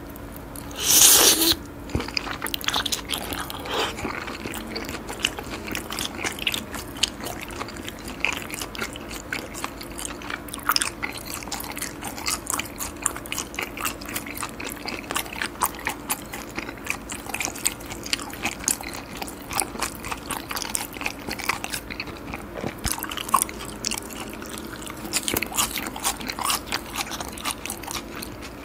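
A person biting and chewing firm, crunchy raw olive flounder sashimi: a dense run of small wet crunches and clicks, with a brief loud rush of noise about a second in.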